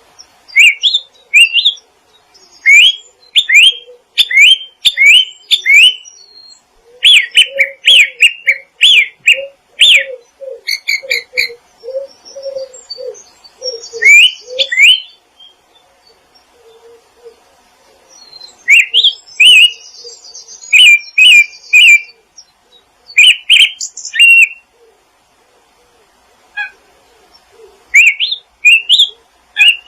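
Wild songbirds chirping in clusters of short, quickly rising notes, with a run of lower, repeated call notes beneath them in the middle and short pauses between bursts.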